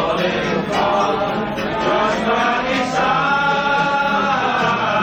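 Restaurant staff singing together in chorus over music, holding one long note about three seconds in.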